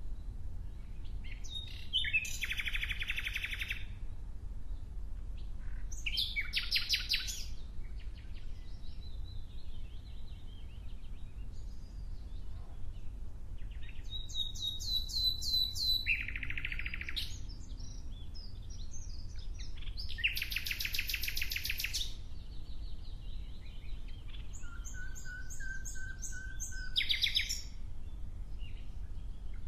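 A songbird singing about five short bursts of rapid trilled song, each a second or two long, a few seconds apart. A steady low rumble runs underneath.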